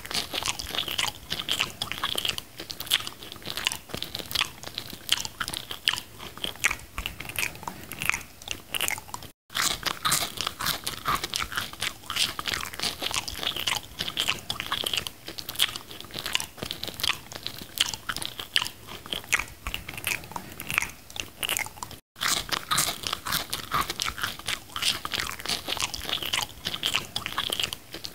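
Close-miked eating of a McDonald's burger and fries: biting, crunching and wet chewing with a dense run of irregular mouth clicks. The sound cuts out briefly twice, at about nine and twenty-two seconds in.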